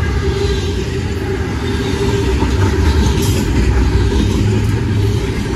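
Train passing close by with a loud, steady low rumble that drops away abruptly near the end.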